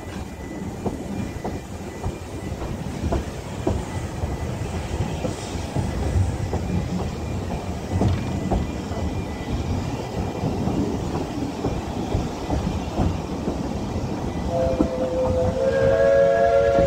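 Narrow-gauge Welsh Highland Railway train running, a steady rumble with wheels clicking over rail joints. Near the end the locomotive's whistle sounds, a steady blast of a few notes together that is the loudest part.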